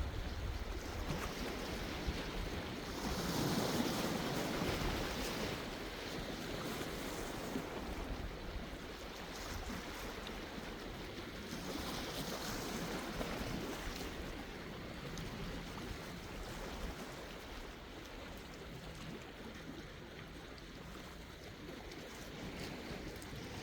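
Sea waves washing onto the shore, one swell breaking about three seconds in and another around twelve seconds, then a steady wash that eases off toward the end.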